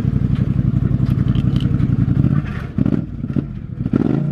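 A vehicle engine running at a steady speed with a low drone, dropping off about halfway through. A few knocks follow, and the pitch falls near the end as it slows.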